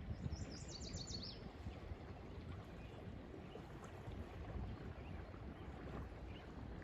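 Lake water lapping gently at the shore, a steady uneven low wash. About half a second in, a bird gives one short, quick trill of high notes.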